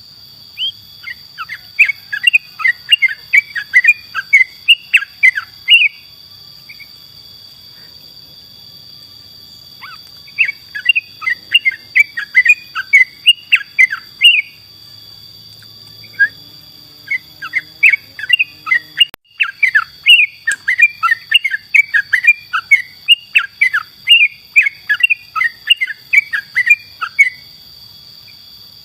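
Yellow-vented bulbul (trucukan) singing vigorously in three long bouts of quick, bubbling, chattering notes, with short pauses between them. A faint steady high-pitched tone runs underneath.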